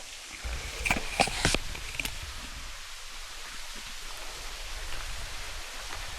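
Steady rush of running water, with a few sharp knocks and clicks between about one and two seconds in.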